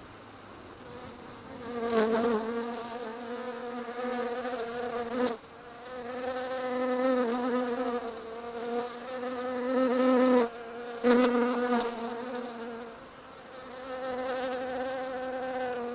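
Mosquito whining in flight: a thin, steady buzz whose loudness swells and fades as it comes close and moves off, cutting out briefly twice.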